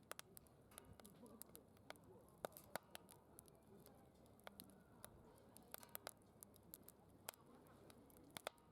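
Wood fire crackling in a DOD Mecha Moe Fire secondary-combustion fire pit: quiet, irregular sharp pops and snaps, several a second at times, over a faint murmur of distant voices.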